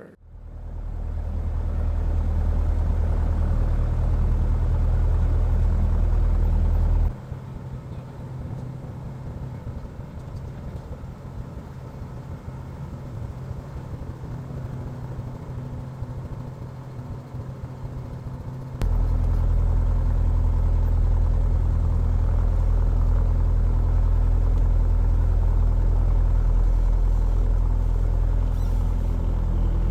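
Single-engine Cessna 177 Cardinal's piston engine and propeller running steadily as it taxis, a deep even drone. About seven seconds in it drops abruptly to a much quieter rumble, and the loud drone comes back just as abruptly a little before halfway through.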